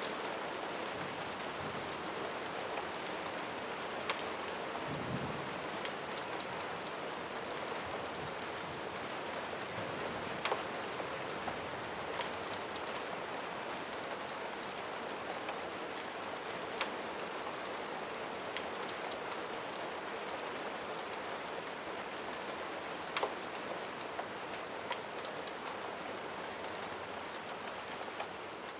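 Steady rain falling, a dense even hiss with scattered sharp ticks of individual drops.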